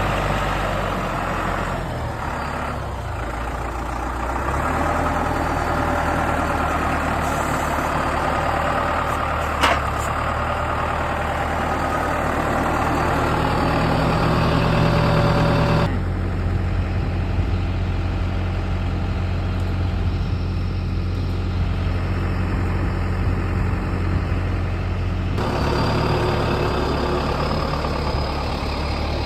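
A farm vehicle's engine running steadily at low revs, with a sharp knock about ten seconds in. The engine note changes abruptly twice.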